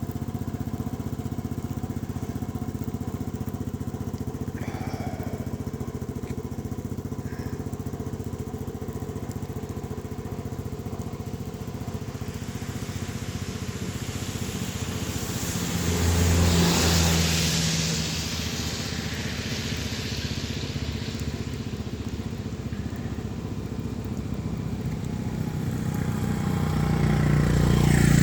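A motor vehicle engine runs steadily throughout. A louder vehicle swells past about sixteen seconds in, and another builds up near the end.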